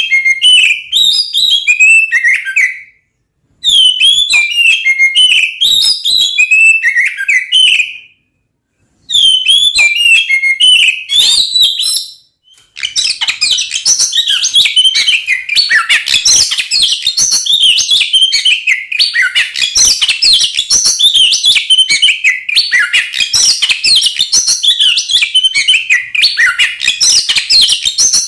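Oriental magpie-robin (kacer) singing loud, varied whistled song. Three separate phrases come with short pauses between them, then about halfway through the song turns into an unbroken, rapid run of notes.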